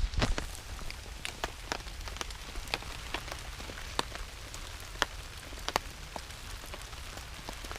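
Steady rain falling, with scattered heavy drops landing as sharp, irregular taps.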